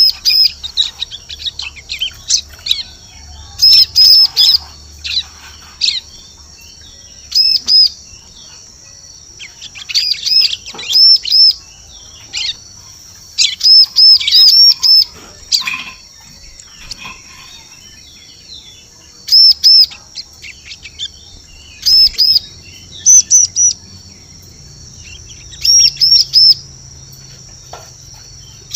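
Bar-winged prinia (ciblek) calling: clusters of two to four sharp, high chirps repeated every second or two, over a steady thin high hiss. It is a lure call used to draw prinias in.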